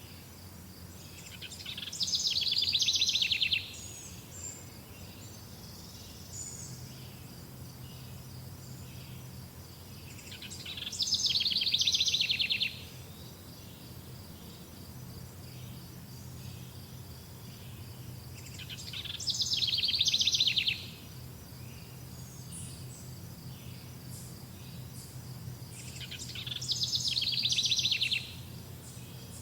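A songbird repeating the same song four times, about every eight seconds: a fast trill of rapid notes that swells in loudness and stops abruptly. Underneath, a steady high insect chirring.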